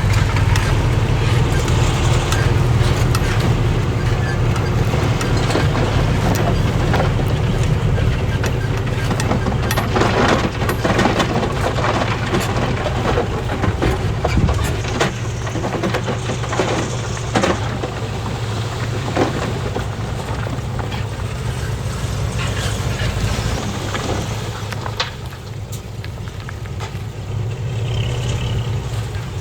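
Heavy diesel earthmoving machinery running steadily, with intermittent clanks and knocks over the engine rumble. The engine eases off briefly near the end, then picks up again.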